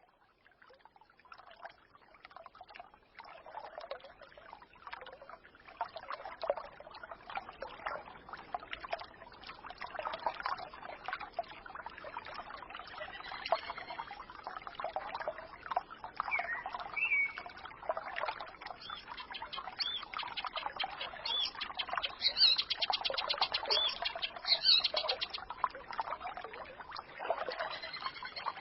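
A small forest stream babbling and gurgling, fading in over the first few seconds. Birds chirp over it, with a fast trill about two-thirds of the way in.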